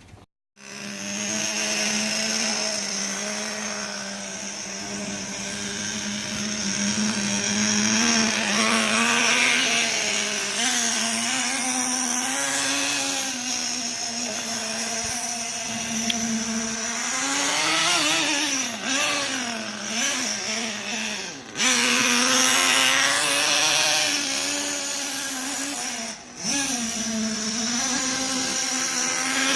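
HPI Savage nitro RC monster truck's small glow-fuel engine running, its pitch wavering up and down as the throttle is worked. The sound dips briefly twice, about 21 and 26 seconds in.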